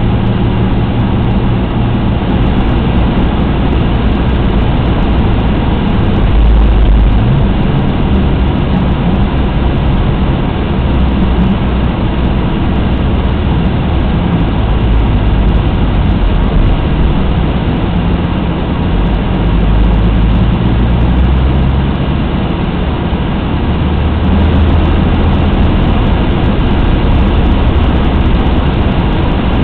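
Alfa Romeo GTA's 3.2-litre V6 engine heard from inside the cabin, running steadily at low to moderate speed with road noise. The drone swells and eases a few times.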